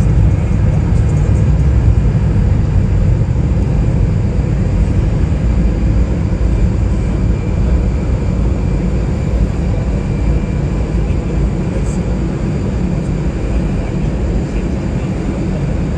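Jet airliner's engines rumbling, a deep steady roar with a faint whine above it, slowly fading over the whole stretch.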